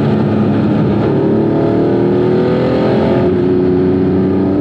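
Porsche 911's air-cooled flat-six engine pulling under acceleration, heard from outside the car with road and wind noise. Its pitch climbs, drops back a little over three seconds in, then climbs again.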